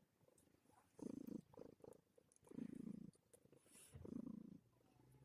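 Calico cat purring softly while kneading, in three short purrs about a second and a half apart, one with each breath.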